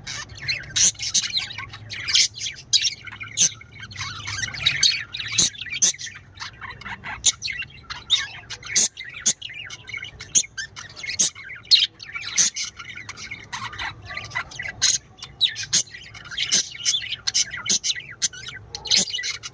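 Several small birds chirping and chattering continuously, a dense run of short high calls with no pauses.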